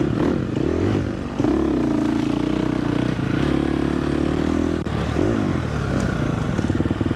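Dirt bike engine revving up and down on the trail, its pitch rising and falling. It gets louder about a second and a half in and drops briefly near five seconds, where there is a sharp click.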